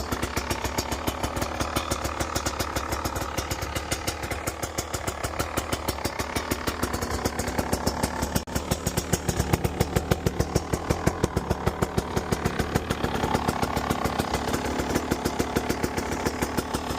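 KTM 300 XC-W's single-cylinder two-stroke engine idling steadily just after a cold start, still warming up.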